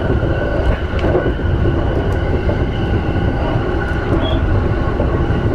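JR Yamanote Line E235-series commuter train running on the rails, heard from inside the passenger car: a steady, even rumble with faint steady high tones above it.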